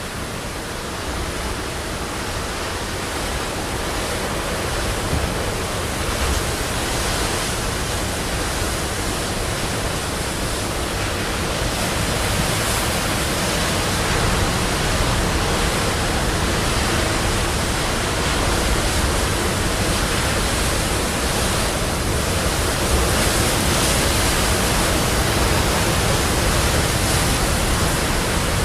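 Sea surf breaking and rushing in a continuous roar, growing slowly louder.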